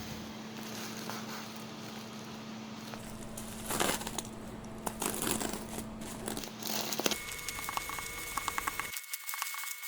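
Plastic packaging being handled and crinkled while an SSD is unboxed, with irregular crackles and, in the later seconds, a run of short clicks.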